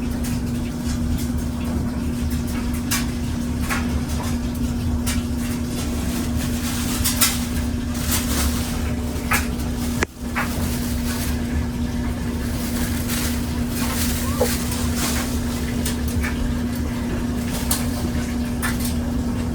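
Steady low mechanical hum with scattered faint clicks and rustles; the sound drops out for a moment about ten seconds in.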